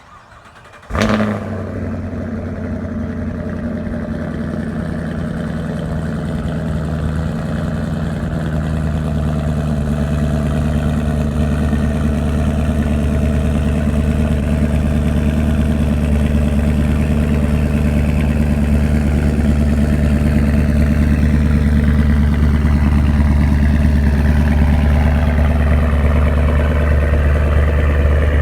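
2016 Chevrolet Camaro SS's 6.2-litre LT1 V8 cold-starting about a second in with a sudden loud flare, then idling steadily through the stock dual-mode exhaust with its valves open in Track Mode.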